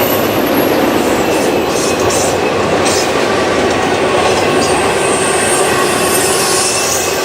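Freight train rolling past at close range: a steady loud rumble of the cars with wheels clattering over the rail joints and brief high-pitched squeals from the wheels on the rails.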